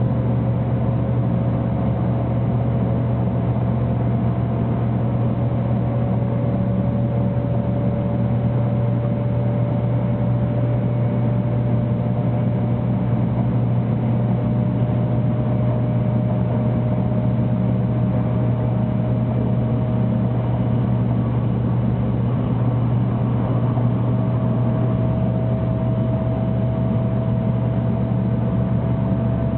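Running noise inside the cabin of a 300 series Shinkansen: a steady low rumble with a faint whine that climbs slowly in pitch.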